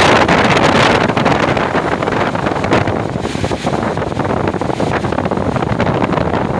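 Strong wind gusting and buffeting the microphone, a loud rough rushing that eases a little after the first couple of seconds.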